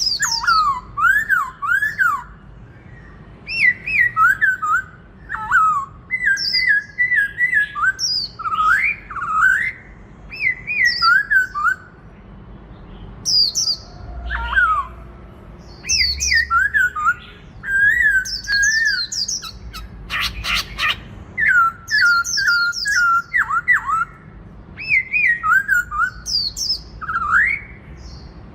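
Black-throated laughingthrush singing loud, fast phrases of slurred, rising and falling whistles, in bouts broken by short pauses, with a brief harsh rattle of clicks about two-thirds of the way through.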